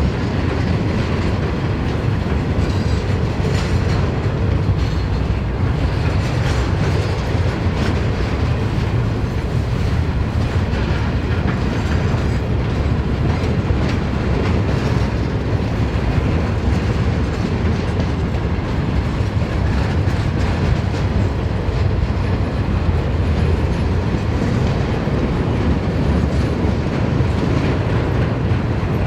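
Freight train wagons rolling steadily past, a continuous rumble with the clatter of steel wheels on the rails.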